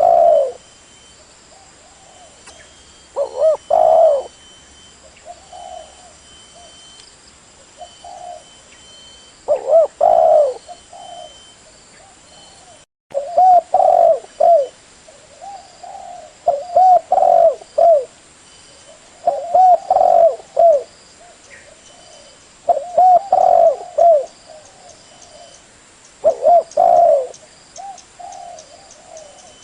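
Spotted dove cooing: a phrase of several low coos repeated every few seconds, as a call played to lure wild doves. The sound drops out completely for a moment about 13 seconds in.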